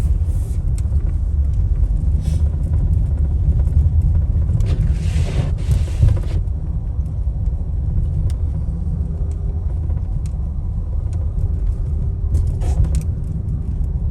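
Steady low rumble of vehicles on a snowy highway, with the tyre hiss of a vehicle passing swelling up about five seconds in and again, more faintly, near the end.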